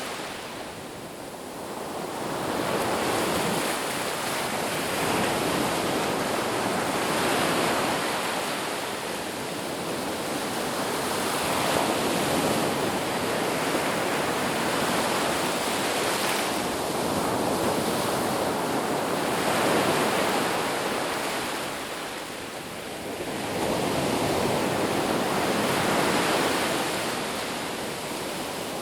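Ocean surf washing onto a beach: a continuous rush of water that swells and eases every few seconds, with two clear lulls, about a second in and about two-thirds of the way through.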